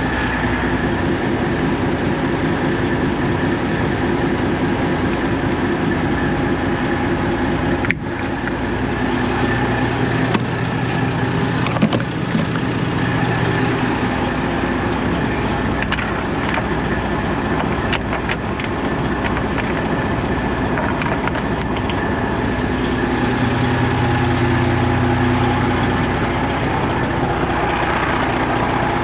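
Semi truck's diesel engine running steadily, its pitch shifting slightly, with a sharp click about eight seconds in and another about twelve seconds in.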